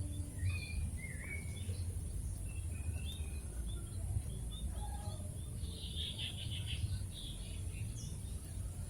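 Birds chirping in short high calls, with a denser run of chirps about six seconds in, over a steady low rumble.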